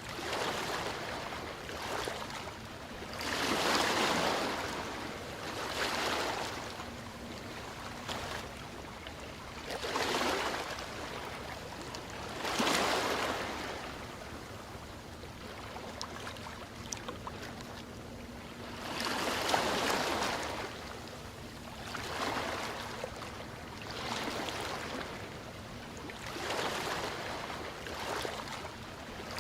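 Ocean waves washing ashore, each wave swelling into a rushing hiss and then fading, one every few seconds.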